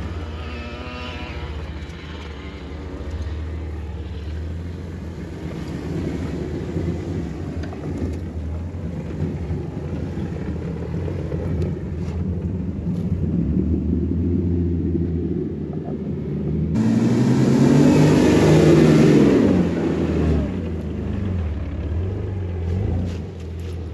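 Vehicle engine running while driving off-road, a steady low drone. About 17 s in the sound changes suddenly to a louder stretch where the engine revs up and back down.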